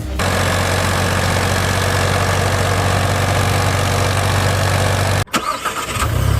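Tractor engine running steadily, loud and low. It cuts off abruptly about five seconds in, and a different engine sound follows.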